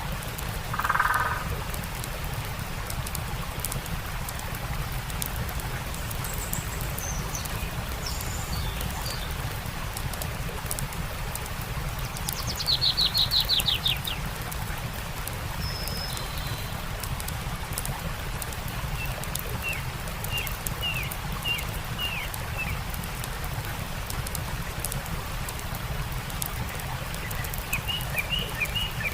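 Steady rushing of a stream with songbirds calling over it: a short call about a second in, scattered high calls, a loud rapid trill around the middle, and a run of short repeated chirps later on.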